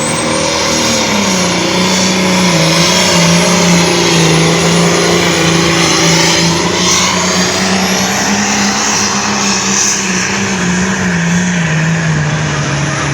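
A pulling vehicle's engine at full throttle under heavy load as it drags the weight sled down the track. Its pitch holds fairly steady with small dips, and a thin high whistle rises at the start and then holds above it.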